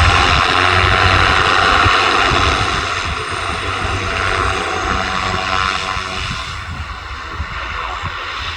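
Aircraft engines passing close: a loud rushing noise with a steady multi-tone whine that gradually fades as the plane moves away. Wind buffets the microphone.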